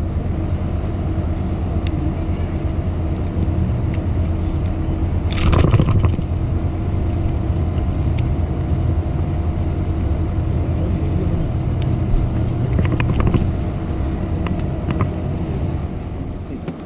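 An engine running steadily with a low, even hum. A short rustling knock comes about five seconds in, and a few light clicks come later.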